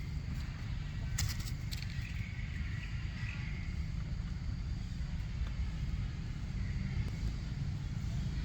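Outdoor background noise: a steady low rumble with faint high chirps and a few sharp clicks about a second in.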